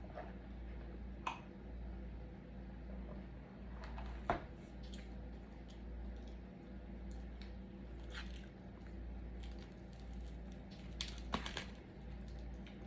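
A person chewing and biting food, with scattered short crunchy, wet mouth sounds and a small cluster of clicks near the end, over a steady low hum.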